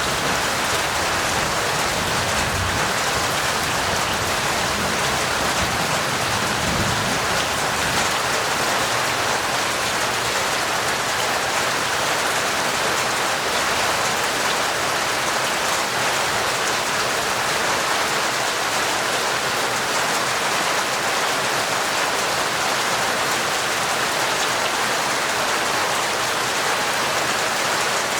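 Steady heavy rain pouring down, a dense even hiss. A low rumble of thunder dies away over the first several seconds.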